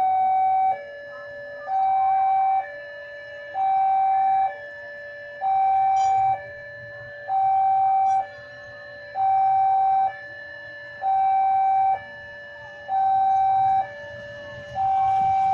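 Electronic two-tone warning alarm at a railway level crossing, alternating a high and a low tone about once a second each, sounding because a train is approaching.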